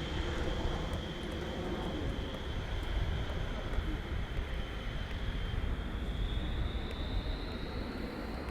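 Rolls-Royce Dart turboprop engines of a YS-11 running with their high, steady whine over a low rumble, the whine rising slightly in pitch near the end.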